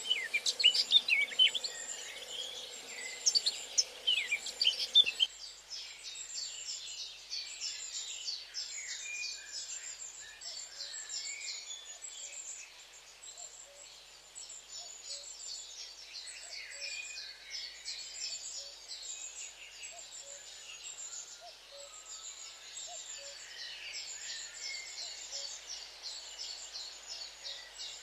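Small birds chirping. For about the first five seconds there are loud, sharp calls, then the sound changes abruptly to a quieter, steady run of short, high chirps repeating several times a second.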